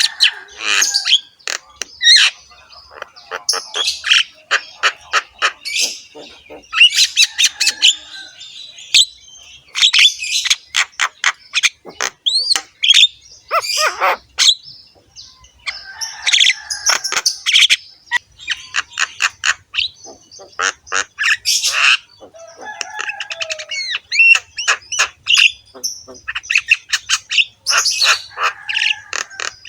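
Javan myna (jalak kebo) singing a long, varied song of harsh, rasping chatter, with rapid runs of clicks and short whistled glides, hardly pausing.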